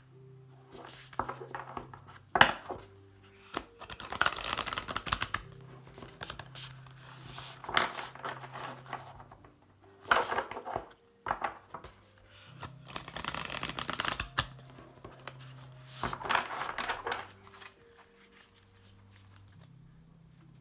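A deck of tarot cards being shuffled and handled in several separate bursts of shuffling, with sharp card snaps and clicks in between.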